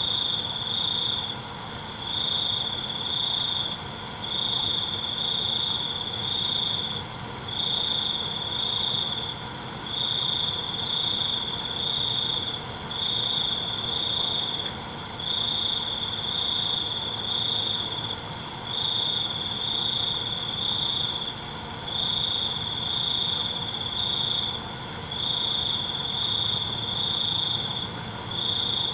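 A night chorus of crickets and other insects. One loud chirping trill repeats in bursts of about a second, roughly every one and a half to two seconds, over steady high-pitched insect buzzing.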